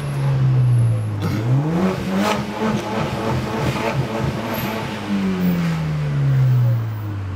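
BMW 320i's turbocharged four-cylinder, fitted with an aftermarket intake, downpipe and a nearly straight exhaust with one small muffler, heard from inside the cabin under hard acceleration. The engine note climbs about a second in, holds high for a few seconds, then falls away as the driver lifts off near the end.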